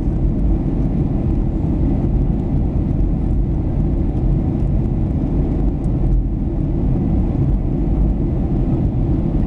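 Steady cabin noise inside a Boeing 737-800 in flight: the low, even drone of its CFM56 jet engines and the airflow over the fuselage.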